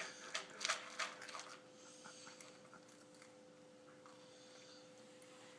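Toddler chewing hard cereal: a run of sharp crunches and clicks in the first second and a half, then faint, scattered chewing sounds.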